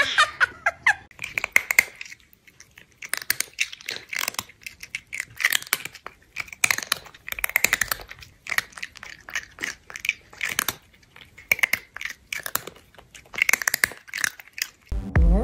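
Chewing and crunching: eating sounds made of quick, irregular clicks that come in short bunches with brief pauses between.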